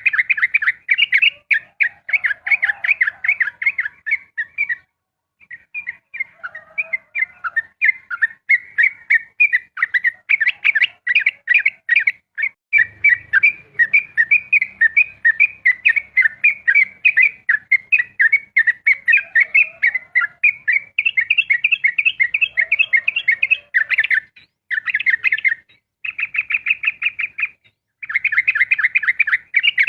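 Yellow-vented bulbul (trucukan) singing a fast, nearly unbroken run of chirping notes: the rapid 'ropel' song, with a short pause about five seconds in and a few brief breaks near the end.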